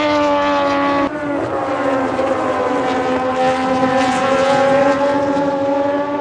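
Racing motorcycle engine at high revs on the circuit. Its pitch drops sharply at a gear change about a second in, then climbs slowly as it pulls through the next gear.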